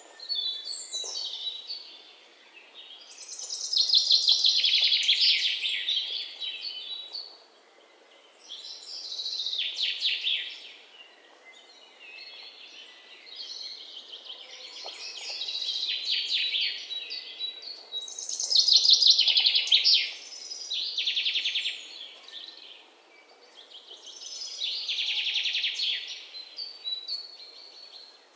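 A songbird singing loud, rapid trilled phrases, each two to three seconds long and repeated every few seconds, with quieter chirps between them.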